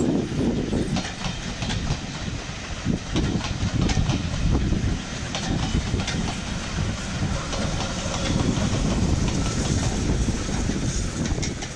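Passenger coaches of a heritage steam train rolling past close by: a steady low rumble with the wheels clicking over the rail joints. It fades as the end of the train goes by near the end.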